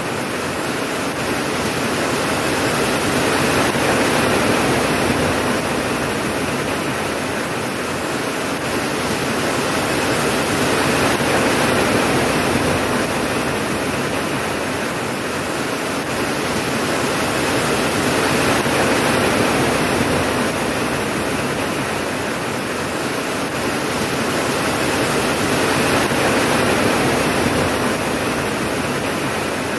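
Steady heavy rainfall, a dense even hiss that swells and eases slowly about every seven or eight seconds, with no thunderclap.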